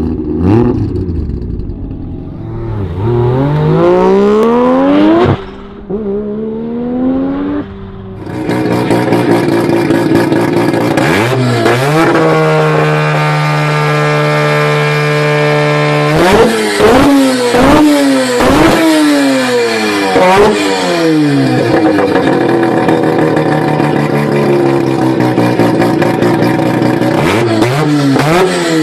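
Mazda RX-7 FD3S's twin-turbo 13B rotary engine with the exhaust deleted, revving up and down again and again. Partway through it is held at a steady high pitch for a few seconds before dropping back into quick rev sweeps.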